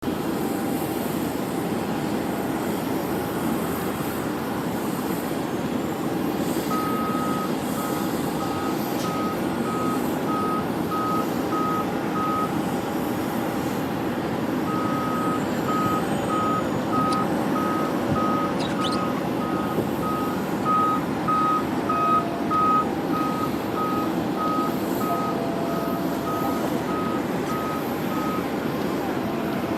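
Vehicle reversing alarm beeping, about one and a half beeps a second, in two runs with a short pause between them, over a steady background rumble.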